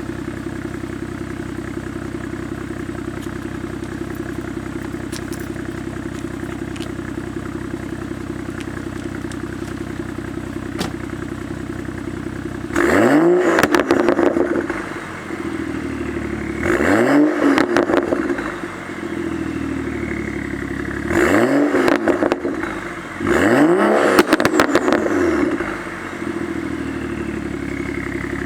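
BMW X5 exhaust, running a catless downpipe straight into a Vibrant Performance 10632 muffler, idles steadily with a deep tone. About halfway through it is revved four times, a few seconds apart, and each rev climbs and drops back to idle.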